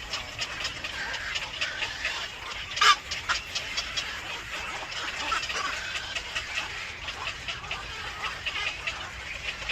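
Birds calling: a steady run of many short, high calls, with one louder call about three seconds in.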